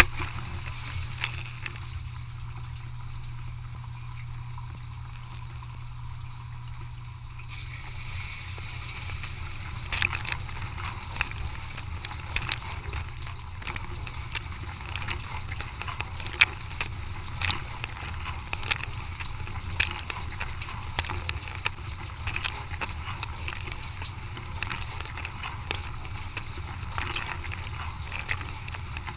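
Dishwasher running: a steady low motor hum under water spraying, which grows louder about a quarter of the way in, with scattered light clicks.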